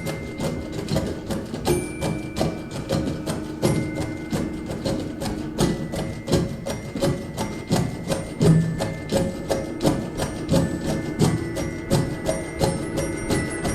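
Saxophone band playing a percussive piece: a fast, even run of sharp clicks, like wood block taps, with a few long held notes over them that change pitch every couple of seconds.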